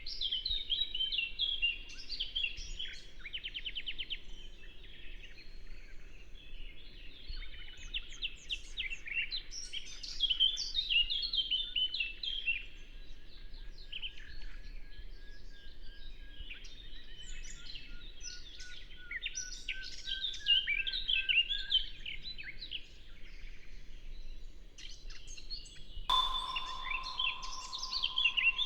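Many songbirds singing at once in a dense chorus of quick, high chirps and trills, over a faint steady rush of river water. Near the end, a steady whistle-like tone starts suddenly beneath the bird song.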